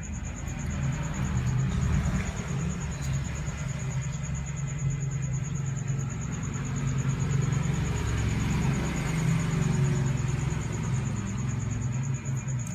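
A steady low rumble with a thin, faintly pulsing high whine over it.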